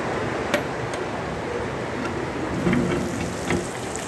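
Heavy rain falling steadily, with a few sharp knocks and a brief louder rattle in the second half.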